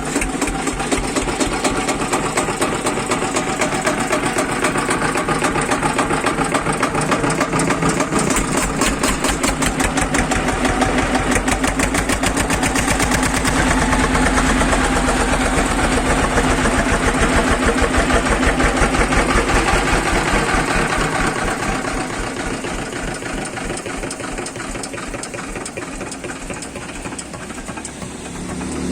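Eicher 241 tractor's single-cylinder diesel engine running with a fast, even beat, louder through the middle and easing off somewhat near the end.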